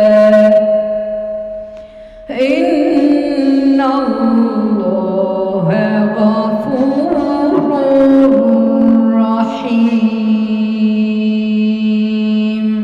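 A woman chanting Quran recitation in the melodic tajweed style, holding long, slowly ornamented notes, with a short pause for breath about two seconds in.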